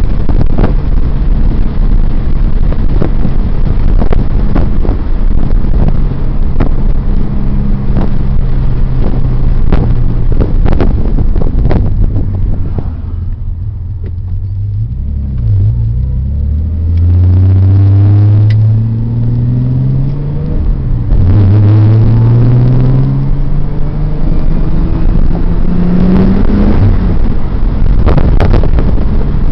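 Nissan 300ZX twin-turbo V6 driving: the engine runs steadily, goes quieter for a couple of seconds around the middle, then climbs in pitch through two low-boost pulls with a gear change between them, and drops back near the end.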